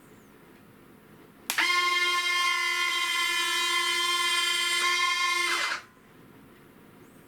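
Small electric motor of a radio-controlled model airplane, powered up with a sudden start about a second and a half in. It runs as a steady whine at one pitch for about four seconds, then stops.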